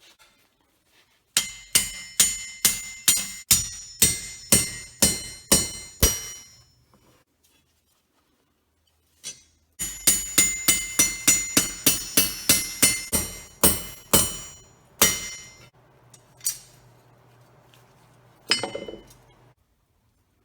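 Forging hammer striking hot spring steel on an anvil, each blow ringing. A run of about a dozen blows at roughly two a second, a pause, then a faster run of about twenty, and a few single blows near the end.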